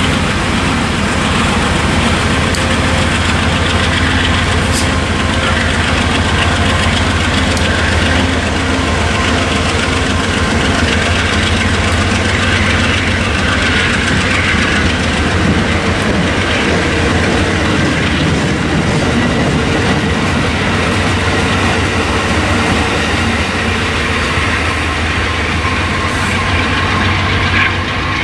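Commuter push-pull passenger train running past on the tracks: a steady rolling noise of steel wheels on rail with clickety-clack, over a steady low hum.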